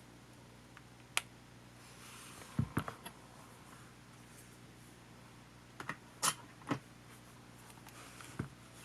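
Scattered sharp clicks and light knocks of small hard parts and tools being handled while a compact camcorder is taken apart: one click about a second in, a short cluster of taps a little later, another cluster past the middle and one more near the end.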